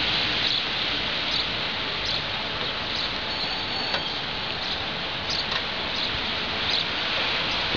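Steady rain falling, an even hiss, with faint short high chirps now and then.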